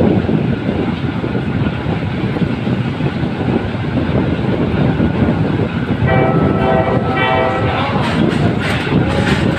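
Passenger train running on the track, heard from an open carriage window: a continuous heavy rumble and rattle. About six seconds in, a pitched warning signal sounds in quick pulses for about a second and a half. Sharper clacks of the wheels follow near the end.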